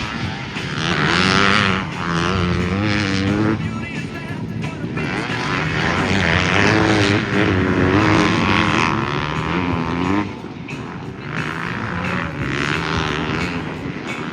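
Motocross bike engines on track, revving up and dropping back over and over as the riders work the throttle and shift gears.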